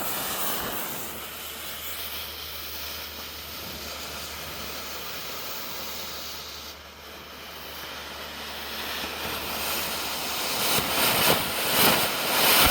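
Coloured smoke fireworks, red and blue, hissing steadily as they burn. The rushing grows louder and uneven near the end.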